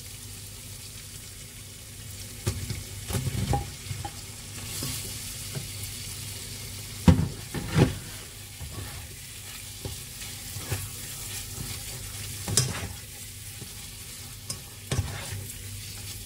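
Fried chili paste sizzling in a pot as fried slices of beef lung are tipped in and stirred through with a slotted spatula. Scrapes and knocks of the spatula against the pot come every few seconds, loudest as a pair about seven to eight seconds in.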